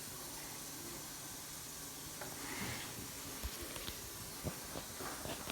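Small microwave running while malfunctioning, heard as a steady low hiss with a faint hum. A few light clicks come in the second half.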